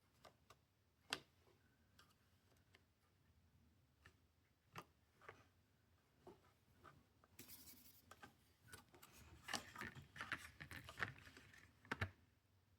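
Faint, scattered taps and clicks of watercolor painting tools on paper and palette. About seven seconds in, a denser stretch of scratchy brushing and quick clicks follows, ending with a sharper tap just before the end.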